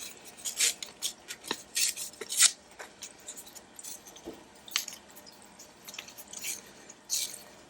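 Paper and craft pieces being handled at a desk: short, irregular rustles and light ticks.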